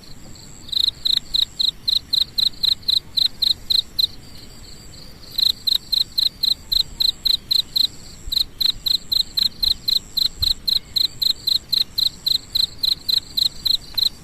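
A cricket chirping in a steady rhythm of about four loud, high chirps a second, with a pause of about a second and a half near the middle. A fainter steady high insect drone runs underneath.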